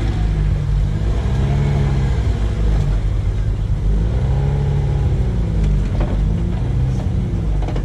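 An off-road 4x4's engine revving up and falling back twice over a steady low rumble.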